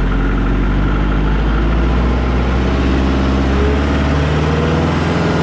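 Kubota L48 tractor's diesel engine running, its revs rising as the engine speed control is moved up; the note climbs gently from about halfway through.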